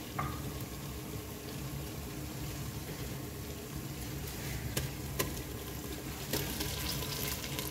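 Sliced onions frying gently in hot ghee in a clay pot: a steady low sizzle. A few light clicks come about halfway through, and the sizzle grows briefly louder near the end as raw beef pieces are tipped in from a bowl.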